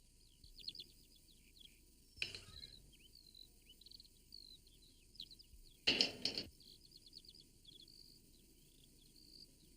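Faint birdsong: many quick, high chirps and tweets throughout, with two brief louder noises about two seconds in and again near the middle.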